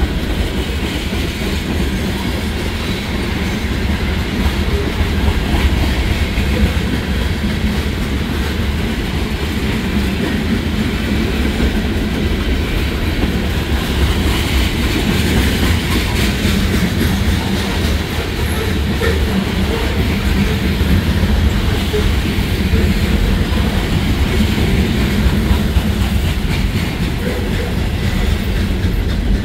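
Freight cars rolling steadily past: tank cars, covered hoppers and double-stack container well cars, a continuous rumble with the clickety-clack of wheels over the rail joints.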